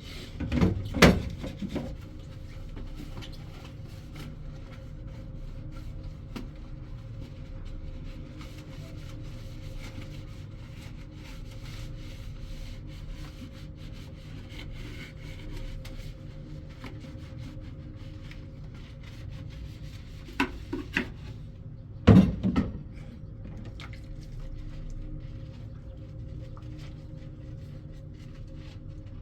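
A steady low hum throughout, with knocks and clatters of objects being handled about a second in and again around twenty-one to twenty-two seconds in.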